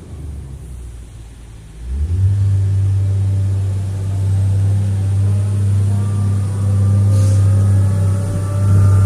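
Diesel engine of a 2003 Atlas 1805 wheeled excavator running at a low speed, then revving up about two seconds in to a steady, louder higher speed. A faint rising whine builds in over the second half.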